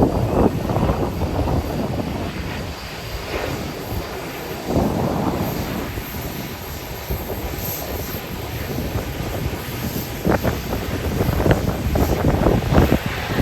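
Airliner engines running at an airport, with strong wind buffeting the microphone in irregular gusts.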